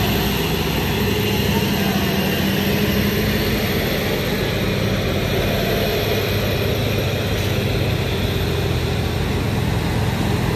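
Heavy diesel truck engine running steadily under load with a low, even drone.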